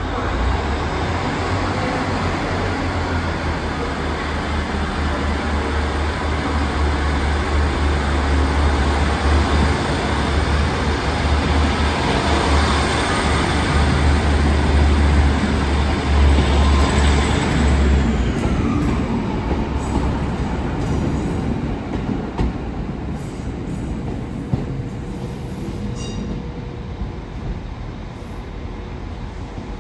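A train passing along the platform: a deep rumble and a broad rush of wheels on rails build to a peak, then the rumble drops away about two-thirds of the way through and the noise fades.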